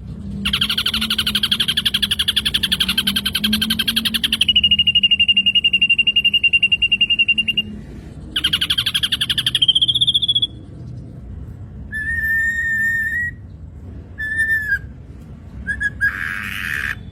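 Black drongo song: a long, rapid buzzing trill, then a steady held whistle, then a second trill that rises at its end. After a pause come several short, lower whistled notes, and a harsher call near the end.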